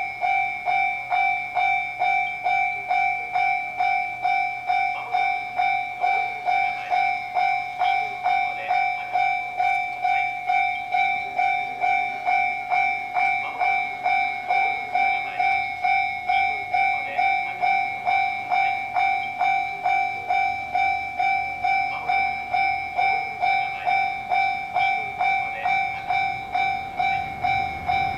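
Japanese electronic railway level-crossing bell ringing, an even ding about twice a second, warning of an approaching train.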